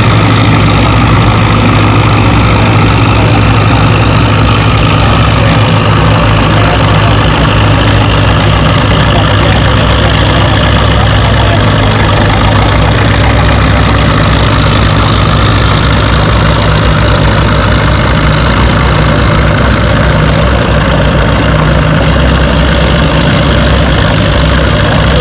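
Tractor engine running steadily with a low, even drone that holds its pitch throughout.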